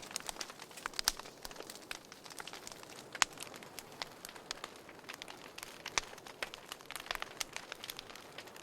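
Wood fire in a fireplace crackling: irregular sharp pops and snaps over a soft steady hiss, the loudest snaps about a second in and just after three seconds.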